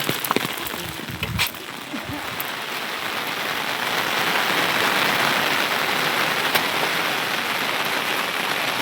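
Steady rain falling, growing louder about three seconds in, with a few knocks and clicks in the first couple of seconds.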